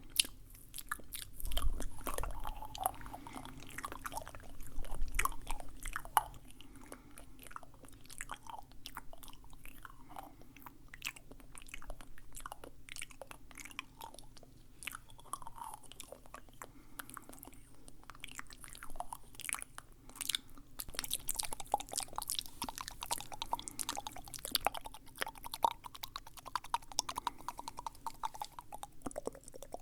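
Close-miked wet mouth sounds: a steady run of short tongue and lip clicks and smacks, like chewing, coming thicker in the last third.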